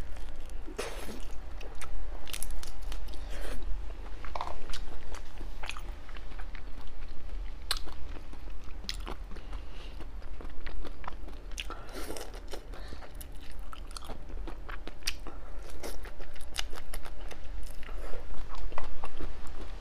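Close-up eating sounds of a person chewing and biting into seafood: irregular wet smacks, clicks and crunches throughout, over a steady low hum.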